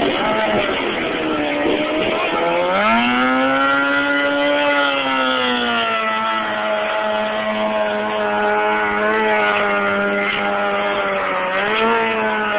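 Stunt motorcycle engine running loud. It revs up about two seconds in and holds high for a few seconds, settles to a steady lower pitch, then revs again briefly near the end.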